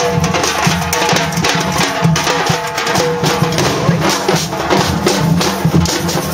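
A band playing music with loud, steady drumming and held notes over it.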